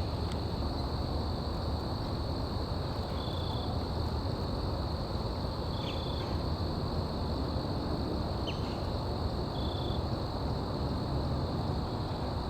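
Outdoor ambience: insects, likely crickets, droning as one steady high tone over a low rumble. A short, high single note comes in about every three seconds.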